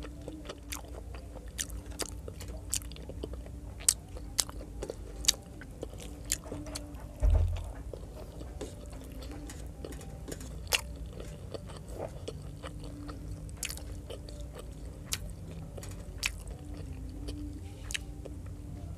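Close-up chewing and biting of pork adobo eaten by hand, with many sharp wet mouth clicks scattered through. One dull thump about seven seconds in is the loudest sound.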